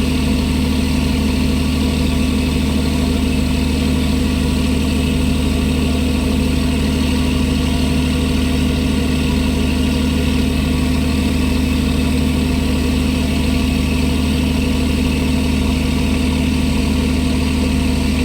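Engine of a squid-fishing boat running steadily: a constant low hum with steady tones that do not change.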